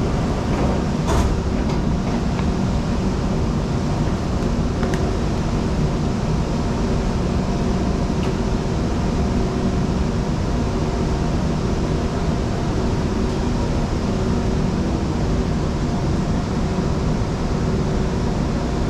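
Steady hum of a stationary MRT train's air conditioning and onboard equipment, heard from inside the carriage at the open doorway, with a brief clack about a second in.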